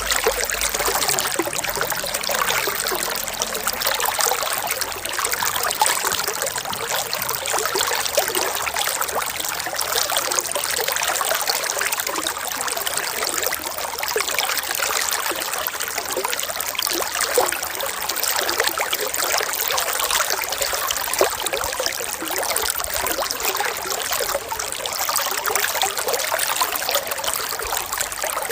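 Running water trickling and splashing steadily, a continuous hiss dotted with small splashes.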